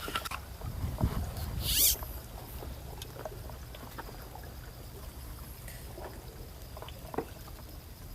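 Sea water lapping at the shore over a steady low rumble, with scattered light clicks and knocks and one short, loud rustling scrape just under two seconds in.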